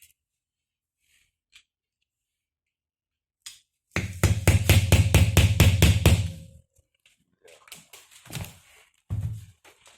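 A burst of rapid knocking, about five blows a second for some two and a half seconds, from work on a GAZelle steering gearbox, followed by a few scattered knocks.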